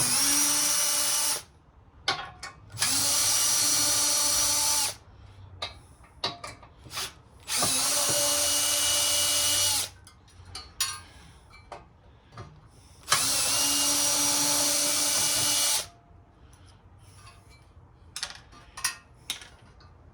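Power drill driving screws out of the saw's housing in four bursts of about two seconds each, each spinning up quickly to a steady whine, with small clicks of screws and parts being handled in between.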